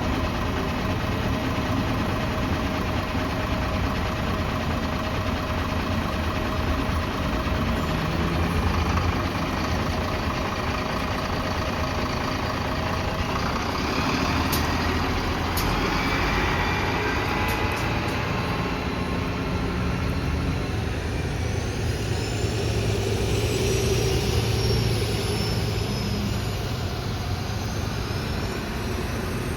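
City bus engine running steadily. Partway through the sound changes, and in the second half a whine rises and falls.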